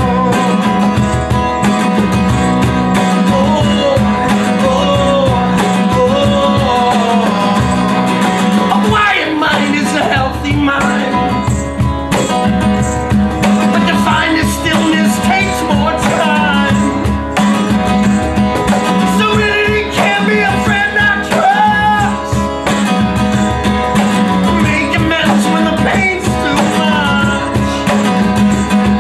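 Live music with a plucked guitar and a singing voice. Underneath is a steady low drone, and the melody line bends and wavers above it.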